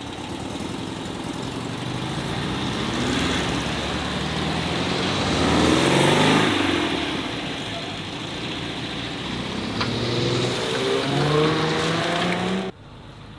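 Modified cars driving off and accelerating past, their engines rising in pitch as they rev. The loudest car passes about halfway through, and another revs up later. The sound cuts off abruptly near the end.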